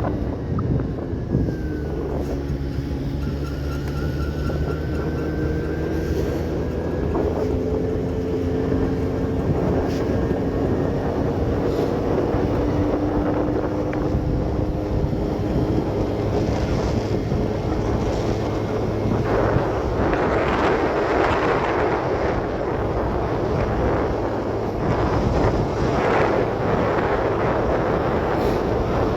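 Motorcycle engine running steadily while riding, its pitch drifting slowly up and down, with wind buffeting the microphone that grows gustier in the second half.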